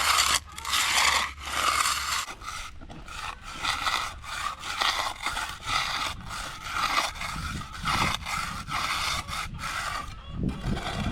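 A concrete finishing tool scraping across a freshly poured, setting concrete slab in repeated strokes, about one a second.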